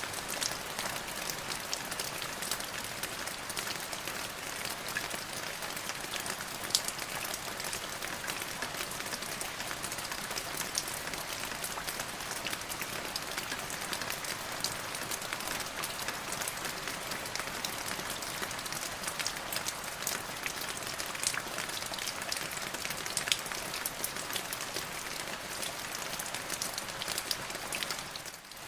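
Steady rain falling, with many sharp individual drop ticks over an even hiss. The sound dips briefly just before the end.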